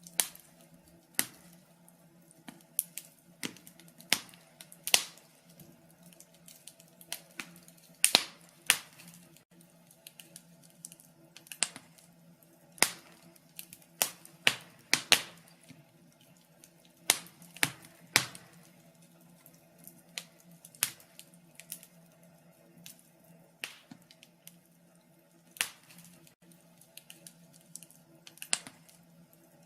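Wood fire crackling in a fireplace: sharp, irregular pops and snaps, some loud, over a faint steady low hum.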